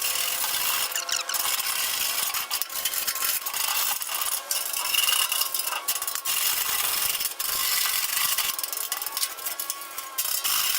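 Wire brush scrubbing the outside of a burnt-in steel drum, a continuous run of scratchy strokes taking off loose burnt paint.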